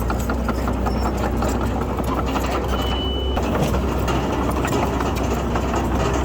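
Bulldozer's diesel engine running with a steady low drone under dense metallic clatter. A single short high beep sounds about three seconds in.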